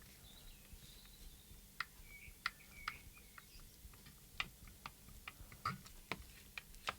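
Small plastic clicks of a RadioMaster Zorro transmitter's buttons and switches being pressed and flicked, about a dozen at irregular intervals.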